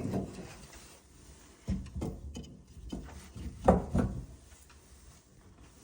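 Firewood logs knocking against each other as they are arranged in a wood stove's firebox: two knocks a little under two seconds in, and two louder ones about two seconds later.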